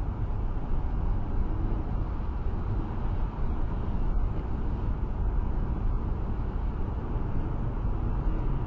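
Steady road and tyre noise inside a car driving at motorway speed in heavy rain, a low, even rumble and hiss.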